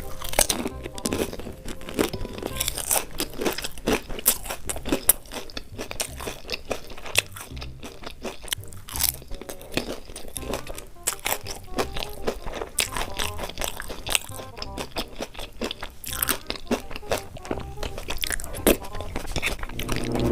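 Close-miked eating: repeated crunchy bites and chewing of food, with background music.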